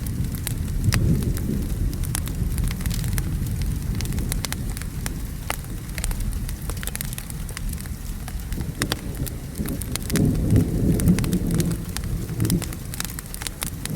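Wood fire crackling in a fireplace with sharp irregular pops, over steady rain and a low rumble of thunder that swells about ten seconds in.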